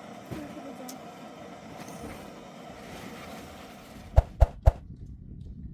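Steady background noise, then three sharp knocks in quick succession about four seconds in.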